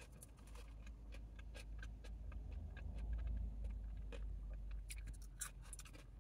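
Close-up chewing of fried chips: a scatter of small crisp crunches and mouth clicks. Under it a low rumble swells toward the middle and fades again.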